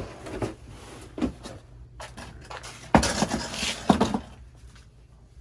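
A few knocks followed by a louder clatter about three seconds in, with a second sharp knock about a second later.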